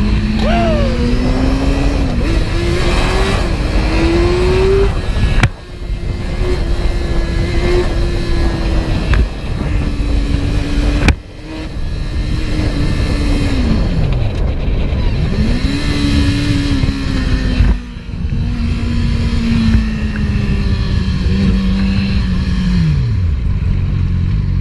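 Vehicle engine running hard, its pitch climbing under acceleration and falling away as it eases off, several times over. There are three abrupt breaks in the sound along the way.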